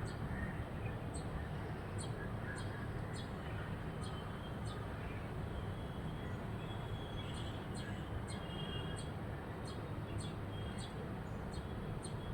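Faint, short bird chirps, scattered irregularly and a few drawn out a little more a little past halfway, over a steady low background hum.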